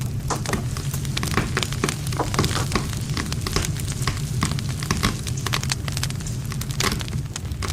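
Wood fire burning with dense, irregular crackling and popping over a steady low rumble of flames.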